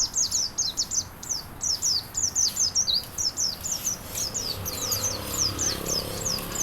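A songbird calling in a fast chatter of short, high, sharply falling notes, about four a second.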